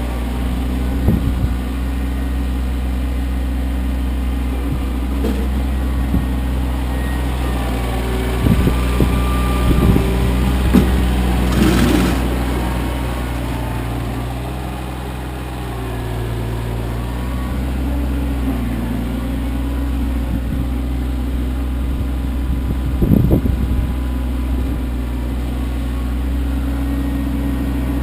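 Kioti CK25 compact tractor's diesel engine running steadily, easing off briefly about halfway, with a few short knocks and clunks along the way.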